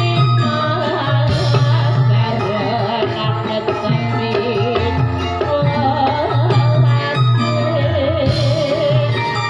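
Javanese Topeng Ireng folk music: a wavering sung melody over drums and a steady bass.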